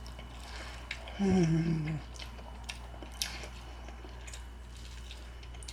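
Close-up mouth sounds of someone eating buttered corn on the cob: soft chewing and biting clicks. About a second in comes a brief hum at one held pitch, the loudest sound here.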